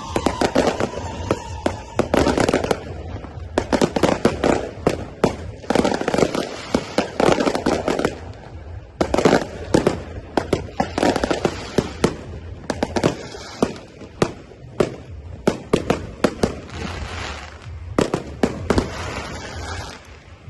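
Fireworks show: many sharp bangs and crackles going off in quick, dense volleys, with short lulls between the clusters.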